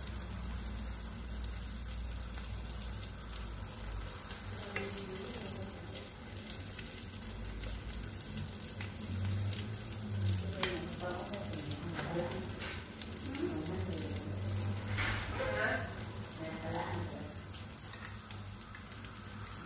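Coated chicken wings frying in hot oil: a steady sizzle and crackle, with a few sharp clicks.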